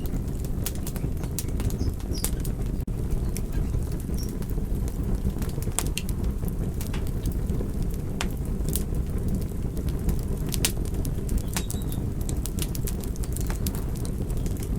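Campfire burning: a steady low rumble with frequent sharp crackles and pops scattered irregularly through it.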